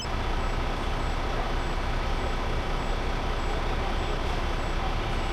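Heavy truck's engine running steadily, a constant rumble with road and cab noise, with a faint high beep repeating a little under once a second.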